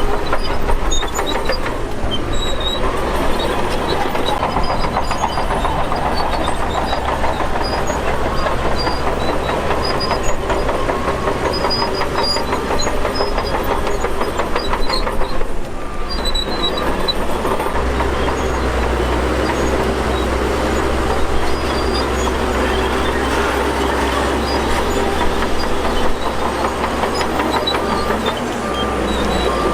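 Shantui DH17 bulldozer working: its diesel engine runs under load over a steady clatter of steel tracks. The low rumble deepens about two-thirds of the way in.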